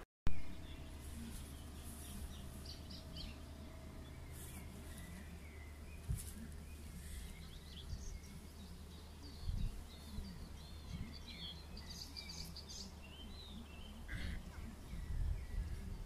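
Small songbirds chirping and singing over a low steady rumble. Just after the start, a brief dropout is followed by a sharp knock.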